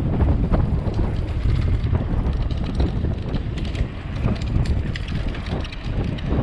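Wind buffeting the microphone on a moving bicycle, with irregular clicks and rattles from the bike as it is ridden.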